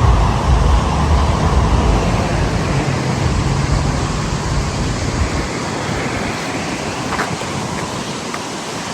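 Steady rushing noise of wind outdoors, with the wind buffeting the microphone in a heavy low rumble that dies away a little over halfway through.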